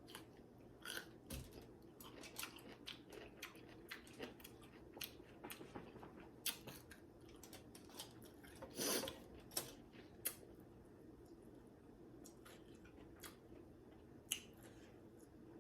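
A person chewing food close to the microphone: many short, wet mouth clicks and smacks at an irregular pace, with one longer, louder smack about nine seconds in.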